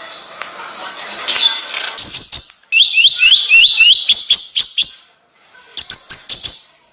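Konin (kolibri ninja sunbird) singing gacor. After a couple of seconds of hiss come sharp, high chirps and a quick run of rising notes, about five a second. A short pause follows, then another burst of chirps near the end.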